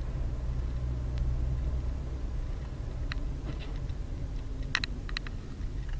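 Steady low rumble of a car driving, engine and road noise, with a few short faint clicks in the second half.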